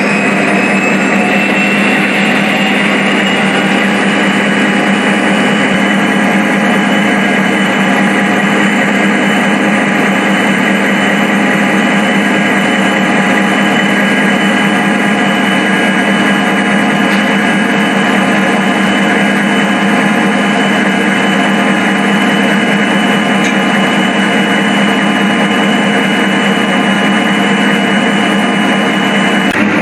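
Diesel locomotive engine sound running steadily, with a whine that rises in pitch over the first few seconds and then holds.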